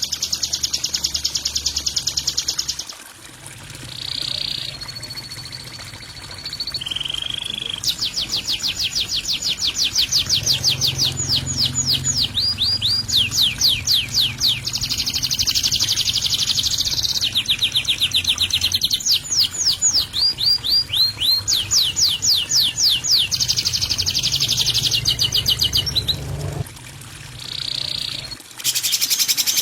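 Songbird masteran recording of rough, harsh song: fast buzzy trills alternating with rapid series of repeated sweeping notes and a few short whistles, in phrases of a few seconds separated by brief pauses.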